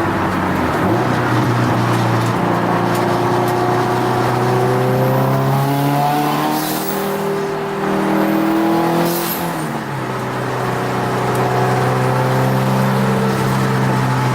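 Turbocharged Subaru WRX STi flat-four engine driven hard on a road course, heard from inside the car, its pitch climbing and dropping repeatedly through the gears. About halfway through there is a dip in engine note, with two short hissing bursts.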